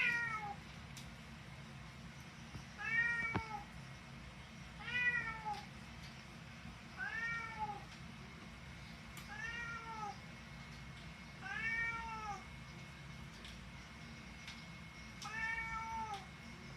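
Domestic cat meowing again and again, about seven drawn-out meows each rising and falling in pitch, roughly one every two seconds. A single sharp click falls about three and a half seconds in.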